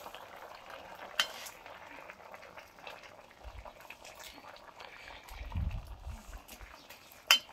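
Paella broth simmering with a steady bubbling in a large paella pan over a wood fire, while a long metal ladle turns the meat and rice, with sharp clinks against the pan about a second in and near the end. A dull low bump comes a little past the middle.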